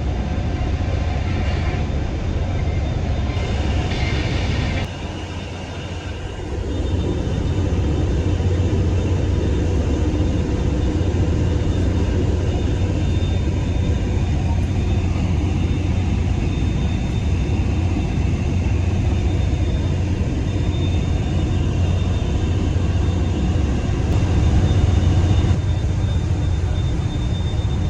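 Hovercraft engines and propellers running at cruising power, heard from inside the passenger cabin as a loud, steady low rumble. The level dips briefly about five seconds in, then steadies again.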